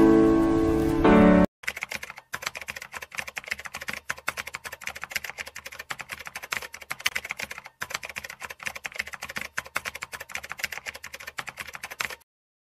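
A few seconds of sustained keyboard chords, then a typing sound effect: rapid, continuous keystroke clicks that stop abruptly near the end.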